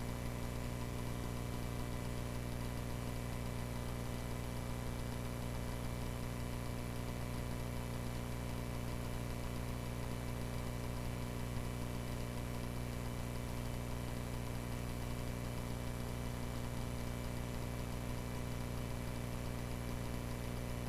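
Cessna 140A's small piston engine running steadily at low power, an even drone that does not change.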